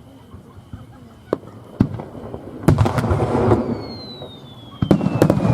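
Aerial fireworks bursting: a series of sharp bangs, with a crackling burst about halfway through and a high whistle that falls slowly in pitch through the second half.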